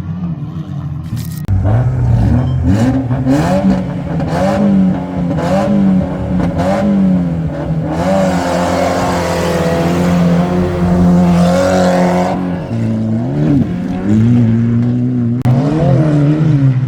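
Rallycross car engine revving hard, its pitch rising and falling about once a second through corners and gear changes. A rushing noise rises over the engine from about eight to twelve seconds in, while the engine holds a higher pitch.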